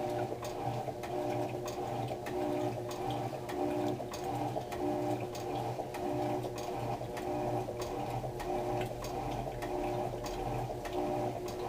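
Electrolux LTR10 top-loading washing machine running: a steady motor hum with frequent light ticking clicks over it.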